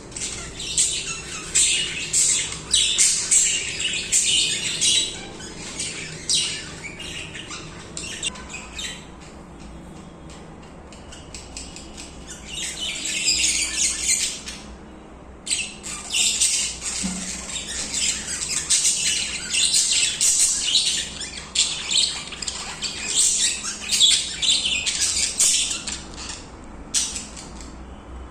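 Budgerigars chattering and warbling in a flock, a dense run of rapid chirps and squawks. The chatter thins out for a few seconds about a third of the way through, then picks back up.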